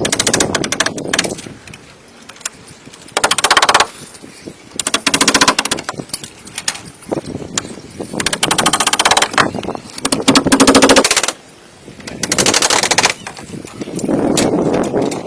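A power tool working wood in a series of short bursts, each about a second long, with a fast, even rattle of rapid strikes and quieter pauses between the bursts.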